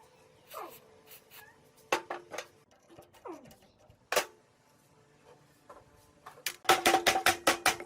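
Hand tools working the metal parts of an old iron cutter: scattered clanks and short scrapes, then near the end a fast run of ringing metal taps, about seven a second.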